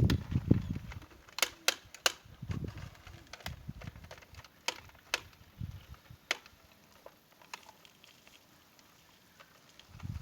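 Sharp clicks and knocks at irregular intervals, with short stretches of low rumble in the first second, about two and a half seconds in, and again near the end.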